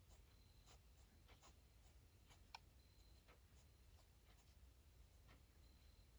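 Faint scratching of a pen on paper in short, separate strokes, with one sharper tick about two and a half seconds in.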